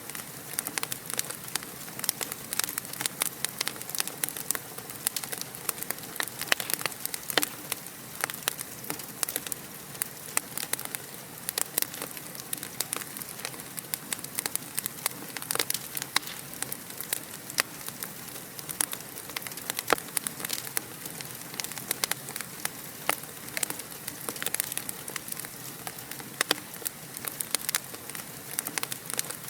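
Wood fire crackling steadily: a constant soft hiss with dense, irregular sharp pops and snaps.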